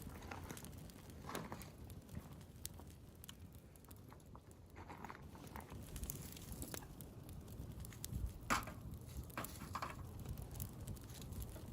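Wood campfire crackling faintly with scattered small pops, one sharper pop about eight and a half seconds in.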